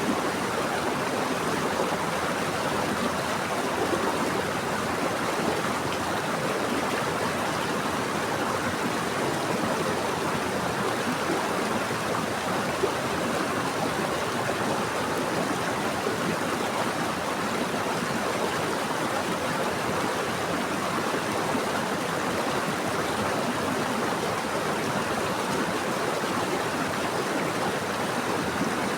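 Stream water running steadily over rocks, an even rushing and burbling with no breaks.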